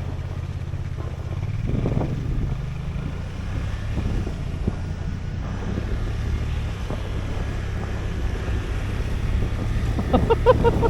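Side-by-side UTV engine running steadily while towing a snow tube, with a brief surge about two seconds in. A voice is heard near the end.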